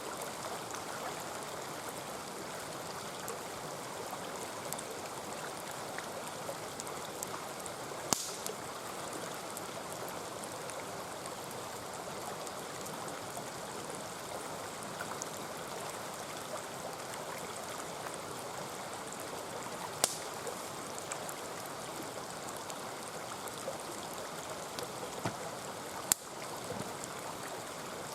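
A mountain stream running steadily, with a wood campfire crackling over it: three sharp pops stand out, about eight seconds in, about twenty seconds in and near the end, among fainter ticks.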